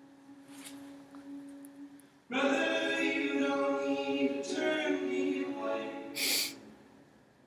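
Choir-like singing: several voices holding steady notes together. It starts about two seconds in after a faint low hum and fades out near the end.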